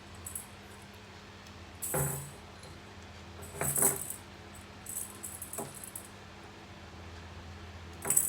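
A cat's toy jingling and rattling in short bursts, about four times: near two seconds in, near four seconds, a few lighter jingles around five seconds, and again near the end.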